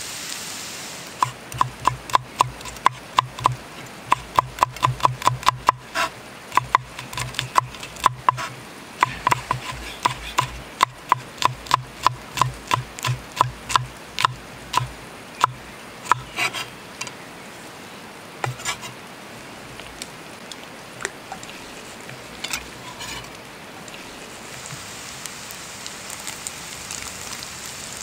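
Knife chopping on a wooden board in quick, even strokes, about three a second, for roughly a quarter of a minute, then slowing to a few scattered cuts.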